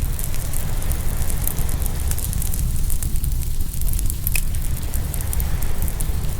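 Open wood fire crackling, with scattered small ticks and one sharper pop a little past the middle, over a steady low rumble. A soft wash of surf swells and fades twice underneath.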